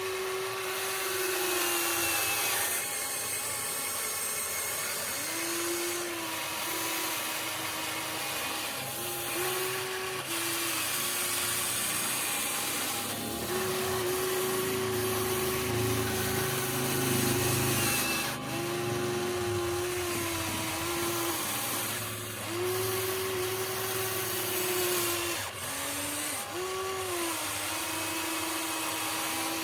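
Electric motors and gearboxes of a Huina 1593 RC excavator whining as it works, in spells of a second to a few seconds, the pitch sagging and rising each time a movement stops and starts.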